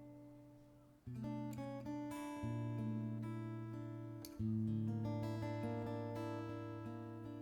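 Instrumental intro of a slow ballad on acoustic guitar: sustained chords changing every two to three seconds, with lighter picked notes between them.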